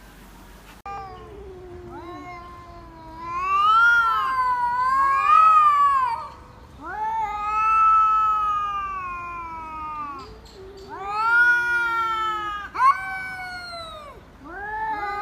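A cat yowling in a series of about five long, drawn-out meows, each bending up and down in pitch.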